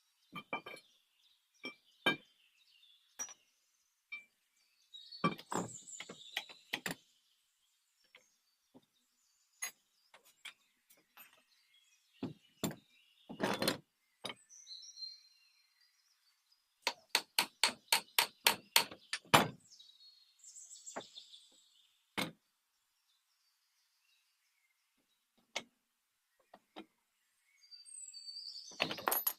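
Scattered knocks and clinks of hand work on metal machine parts, with a quick run of about a dozen even taps, roughly five a second, about two-thirds of the way through. Birds chirp faintly in the background.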